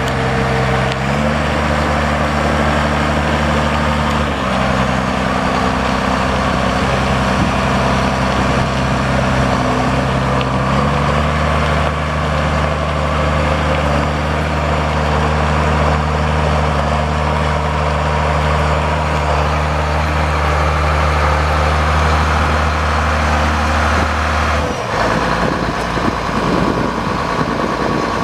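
Case 7140 tractor's six-cylinder turbocharged diesel engine running, its speed stepping up and down a few times. Near the end the engine sound changes abruptly.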